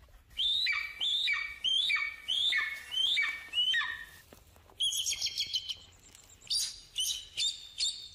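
Birds calling: a run of six similar calls, each a quick rising note that falls away, repeated about every half-second. These give way to a faster, higher run of short chattering calls.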